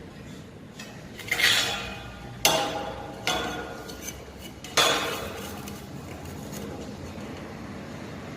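Steel pieces clanking: four loud metal-on-metal clanks about a second apart, each ringing briefly as it fades.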